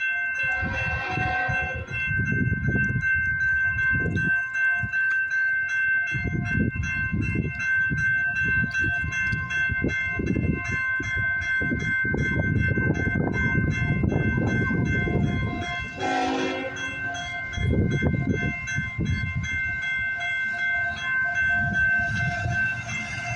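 CN freight train passing close by, led by locomotive CN 3046: rumbling, surging engine and wheel noise under a steady whine, with short horn-like blasts about a second in and again about two-thirds of the way through.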